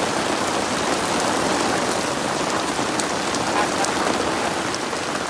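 Heavy rain falling steadily in forest, a dense, even hiss.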